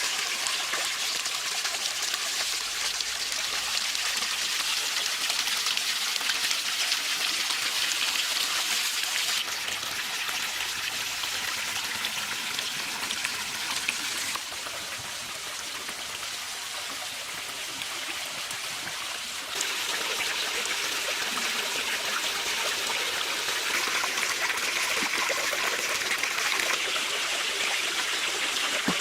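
Running water splashing and trickling steadily. Its level and tone shift abruptly three times.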